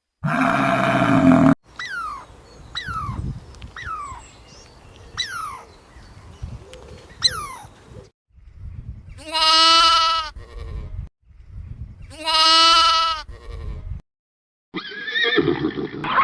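Several different animal calls cut one after another: one loud call, then a run of short falling chirps about once a second, then two long wavering calls, and another call starting near the end.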